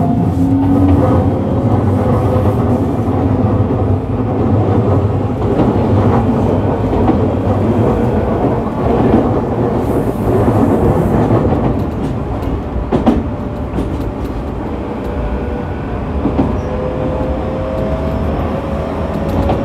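Running sound inside a Tokyu 1000 series electric train car, heard from above the motor bogie: a steady rumble of wheels on rail. The Toyo GTO-VVVF inverter and traction motor give a whine that rises in pitch in the first second, and a fainter rising whine returns near the end. There is a single sharp click about two-thirds of the way through.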